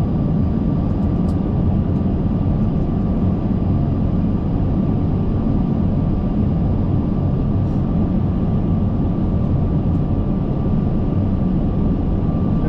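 Airbus A380 flight-deck noise in flight on final approach: a steady, even rush of airflow and engine noise, mostly low, with a thin constant whine above it.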